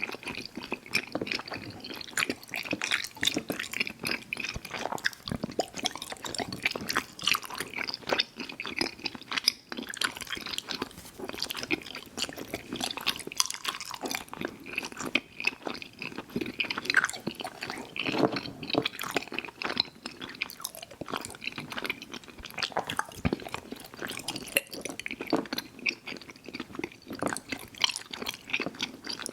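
Close-mic chewing of soft, chewy fruit candy (Airheads Bites and Tootsie fruit chews): continuous wet smacking and sticky clicking of the mouth, in rapid irregular bursts.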